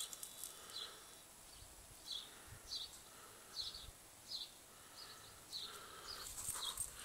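A small bird calling over and over with short, high chirps, about three every two seconds, faint against a steady background hiss. A broader rustling noise builds near the end.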